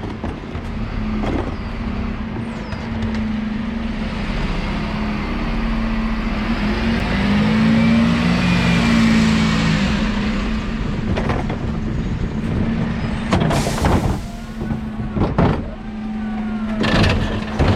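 Dennis Elite 6 refuse truck's diesel engine running steadily as the truck drives, the road and engine noise swelling up to about halfway. In the last few seconds come sharp knocks and a short burst of air hiss.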